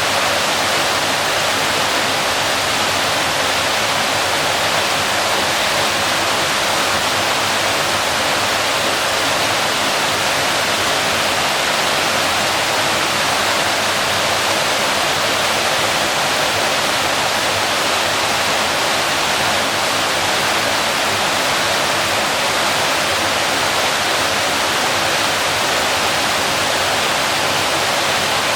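Waterfall: water pouring and splashing in a constant rushing hiss, more hiss than deep rumble, with no change in level.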